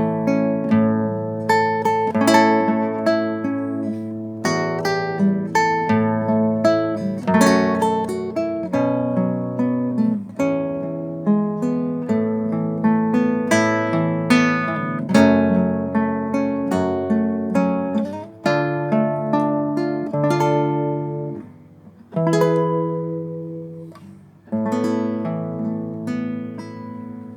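Acoustic guitar played solo, picked notes and strummed chords, slowing near the end to a few separate chords that ring out and fade.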